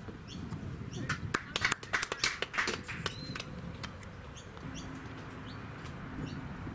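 Birds chirping: short high calls repeating about twice a second, with a flurry of sharp clicks and rapid calls about a second in that lasts a couple of seconds.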